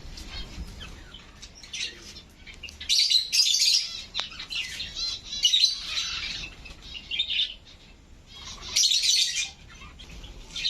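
A flock of aviary birds chirping and calling over one another, high-pitched, with loud flurries about three, five and a half, and nine seconds in.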